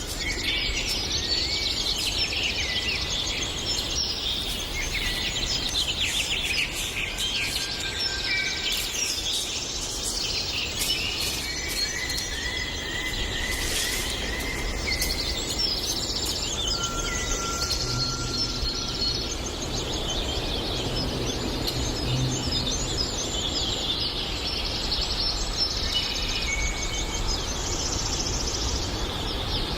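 Several birds singing and chirping at once, many overlapping trills and calls, over a steady low background noise. A faint low hum comes in for a few seconds past the middle.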